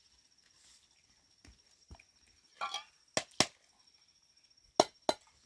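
Half a dozen sharp knocks and clacks of hard objects, irregularly spaced, with a short scraping rustle about two and a half seconds in: the sound of dishes and utensils being handled.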